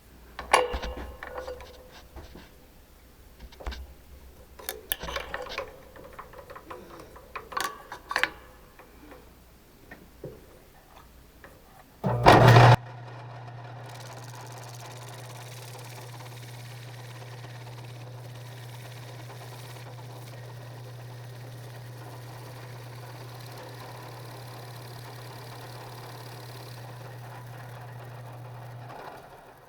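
Scattered clicks and knocks of metal parts being handled for the first twelve seconds, then a loud burst as a machine tool's electric motor switches on. The motor then runs with a steady low hum until just before the end, when it stops.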